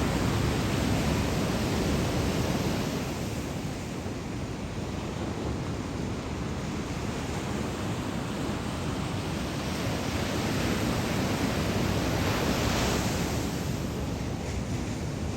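Ocean surf from a typhoon swell: a steady wash of breaking waves, with wind noise on the microphone. The wash swells again with a louder hiss about twelve seconds in.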